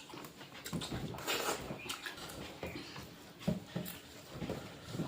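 Close-up eating sounds: irregular wet chewing and lip smacking as a meal is eaten by hand.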